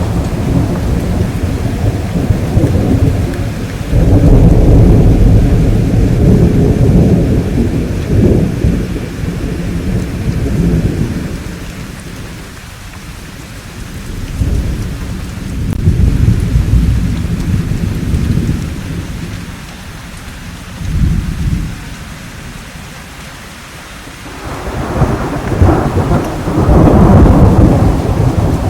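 Thunderstorm: rolling thunder rumbling in several long swells, a loud roll starting suddenly about four seconds in and another building near the end, over steady rainfall.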